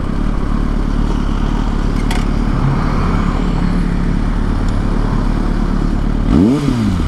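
Kawasaki ZX-6R inline-four motorcycle engine running loud under way, with a wind rush over it. Near the end the revs rise and drop quickly.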